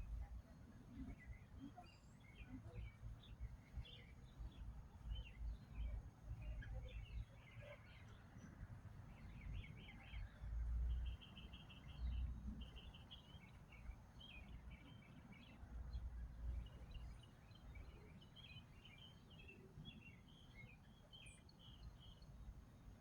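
Small songbirds chirping and twittering, with a quick, evenly spaced trill about halfway through. Low rumbling bursts on the microphone come and go, the loudest a little past halfway.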